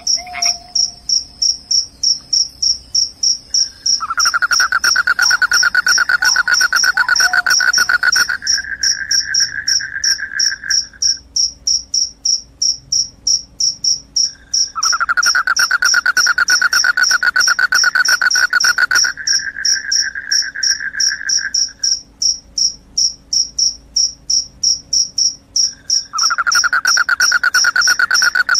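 Crickets chirping steadily, a high-pitched run of chirps at about three a second. A lower, continuous trill joins three times, each bout lasting about six to seven seconds and rising a little in pitch.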